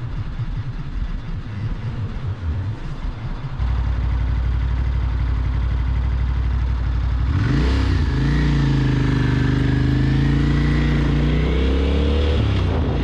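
Motorcycle engine running with an uneven low rumble that steadies about three and a half seconds in. About seven seconds in it revs up and runs on, its pitch rising and falling with the throttle.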